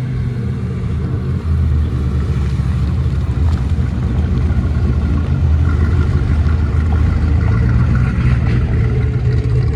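Muscle car engine running close by with a steady, deep exhaust rumble, growing louder over the first couple of seconds and then holding.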